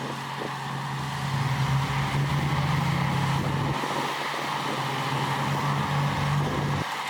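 Diesel engine of heavy earthmoving machinery running under load, getting louder about a second and a half in and easing off again a little before four seconds.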